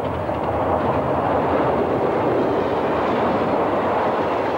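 Passenger train passing close by: a steady rush of wheels on rail as the carriages roll past, building over the first second and then holding.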